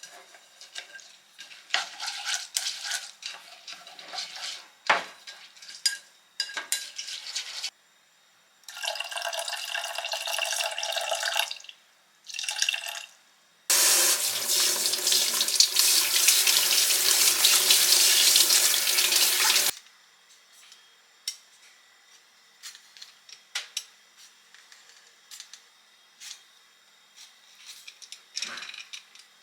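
Water running from a kitchen tap into a sink in several spells, the longest and loudest lasting about six seconds around the middle. Dishes and utensils clink and clatter before and after it.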